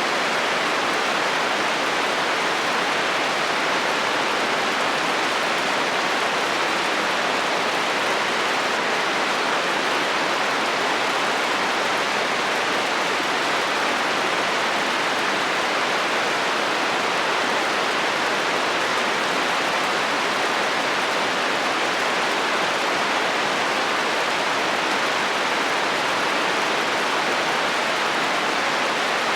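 Heavy rain falling steadily on a metal roof, an even hiss that does not change.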